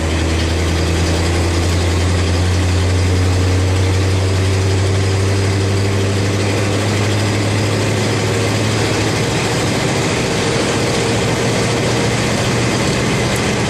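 Old farm truck's engine running steadily in third gear while driving, heard from inside the cab, with a low, even drone.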